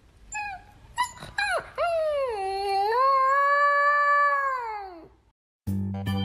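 A dog gives a few short yips, then one long howl lasting about three seconds that dips, holds steady and slides down at the end. Organ music cuts in near the end.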